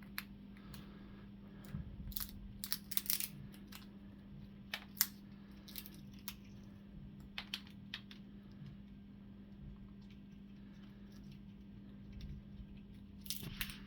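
African grey parrot cracking and crunching a nut shell with its beak: irregular sharp cracks, bunched together about two to three seconds in and again near the end, over a steady low hum.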